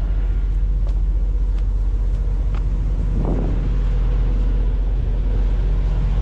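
Diesel engine of a parked truck idling steadily, a deep even hum, with a few faint clicks over it.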